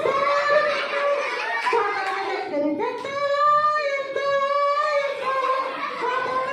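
Voices singing a song, with long held notes, including one held for about two seconds in the middle.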